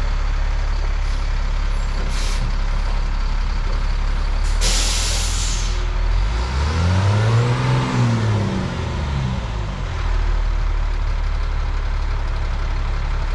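Heavy truck running with a steady low drone. About five seconds in comes a short, loud hiss of released air, and then the engine speed rises and falls back over a few seconds.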